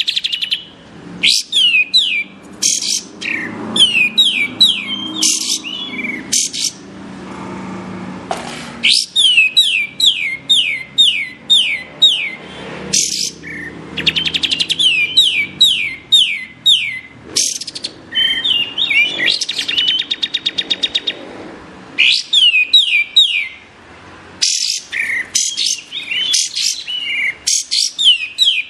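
Cream-vented bulbul (kapas tembak) singing loudly: repeated phrases of quick, sharp, downward-sliding whistled notes, with a rapid buzzy trill in the middle.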